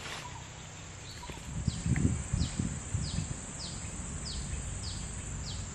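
Swamp ambience: a bird repeats a short falling chirp roughly every half second over a steady high-pitched background drone. A few low thuds and rustles come about two seconds in.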